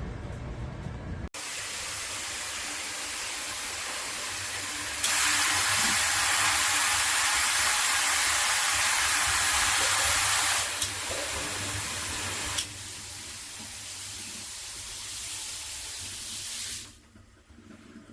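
Water spraying from a handheld filtered shower head as a steady hiss. It gets markedly louder about five seconds in, drops back in steps, and falls away near the end.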